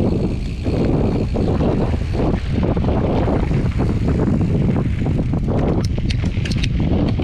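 Wind buffeting the microphone of a camera on a moving mountain bike, a loud steady rumble, with a run of sharp clicks and rattles in the second half.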